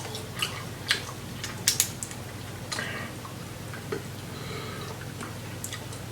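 Close-miked mukbang eating sounds from a seafood boil: several sharp clicks and cracks in the first two seconds, then quieter mouth and handling noises over a low steady hum.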